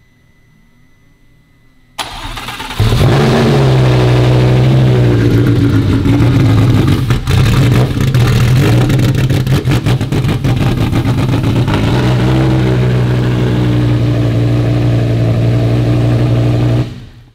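Lamborghini V10 engine cranked by its starter about two seconds in, catching within a second and running at a fast idle, then settling to a slightly lower steady idle about twelve seconds in before being shut off just before the end. It now idles on its own because the electronic immobilizer has been deleted.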